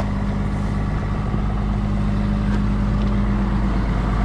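John Deere 790 excavator's diesel engine running steadily, a smooth even drone that sounds great.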